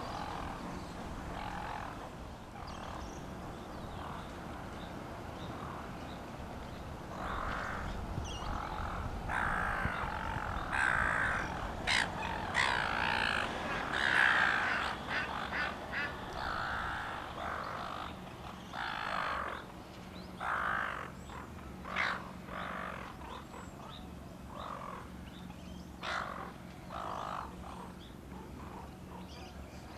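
Birds calling: a run of short calls that come thick in the middle and thin out towards the end, over a steady low hum.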